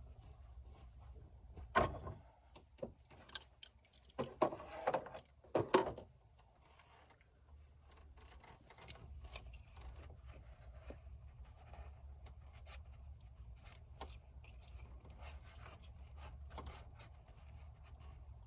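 Clicks, knocks and clatter of hand tools and parts being handled, loudest in a cluster about two to six seconds in, then only a few light ticks over a low steady hum.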